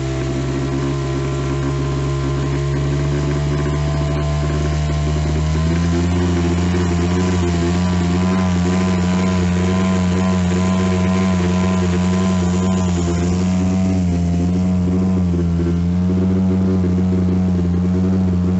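Motorboat engine running steadily under way. Its revs step up about six seconds in and then hold, wavering slightly.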